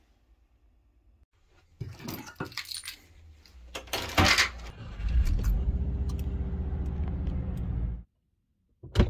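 Keys jangling and a door handle clicking, then a Subaru's engine starts and runs at a steady idle for about three seconds before cutting off abruptly. A single sharp click comes near the end.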